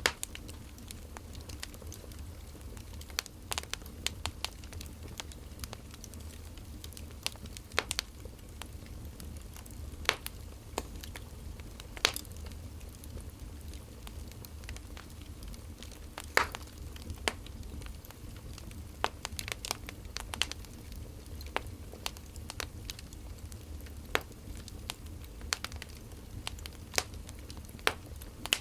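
Burning firewood crackling, with irregular sharp pops, two of them louder about twelve and sixteen seconds in, over a low steady rumble.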